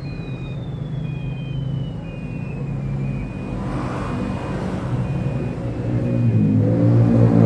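A motor vehicle's engine running, with a reversing beeper sounding about once a second; the engine grows louder near the end.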